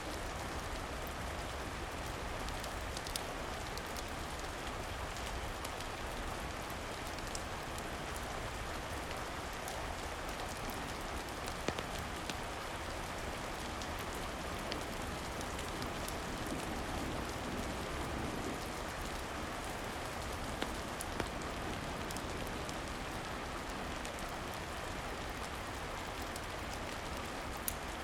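Steady rain, an even hiss with no break, with a handful of sharp crackles scattered through it.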